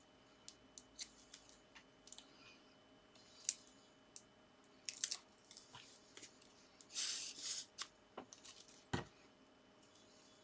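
Card stock being cut and handled for layered paper stars: scattered small clicks and snips, a short paper rustle about seven seconds in, and one knock on the work surface about nine seconds in.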